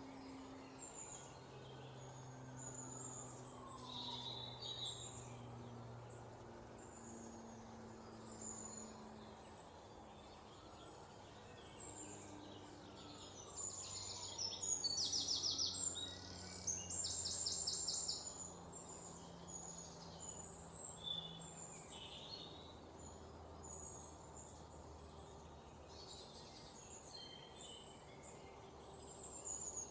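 Songbirds chirping, with many short high calls throughout and a louder rapid trill of quickly repeated notes about halfway through. Faint low held tones run underneath.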